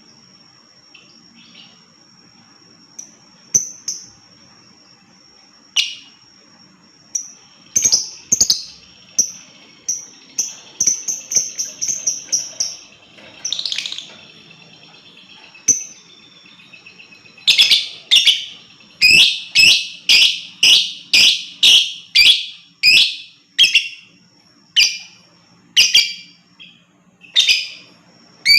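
Lovebird calling: a thin, steady high tone with scattered sharp chirps in the first half, then a fast run of loud, shrill chirps, about two a second.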